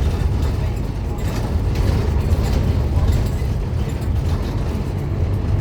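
Scania N230UD Omnicity double-decker bus running steadily, a deep engine rumble with light rattling and clicking over it.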